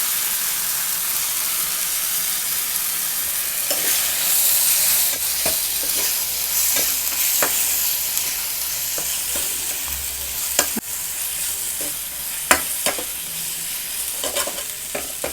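Chicken liver pieces sizzling in hot oil with the ground spices and salt in a pan, being stirred. A steady sizzle runs throughout, with sharp knocks and scrapes of the spoon against the pan, more of them in the second half.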